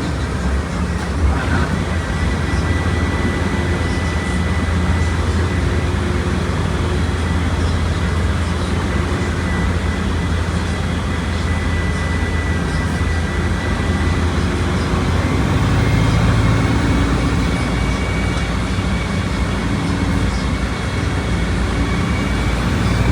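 Volkswagen Volksbus 17.230 Euro 6 bus engine running under way: a steady low drone with a thin high whine above it. About two-thirds of the way through, the engine grows louder for a couple of seconds, then settles again.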